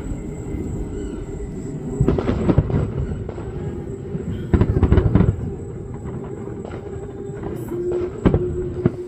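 Fireworks going off: bangs and crackling over a steady low rumble, with two louder stretches about two and four and a half seconds in and a sharp bang near the end.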